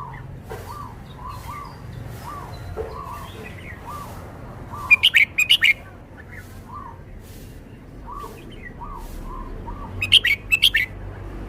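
Red-whiskered bulbul singing two short, loud, quick song phrases, about five seconds in and again near the end. Under them runs a steady series of soft, short call notes at a lower pitch, repeating every half second or so.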